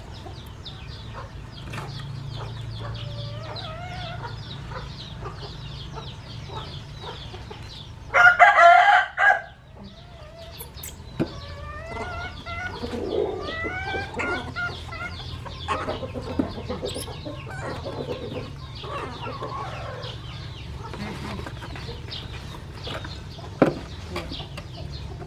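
Chickens clucking and chirping, with a rooster crowing once, loudly, about a third of the way in.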